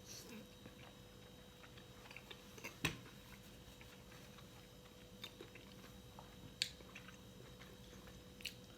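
Close-miked chewing and biting: soft wet mouth sounds with scattered sharp clicks, the loudest about three seconds in.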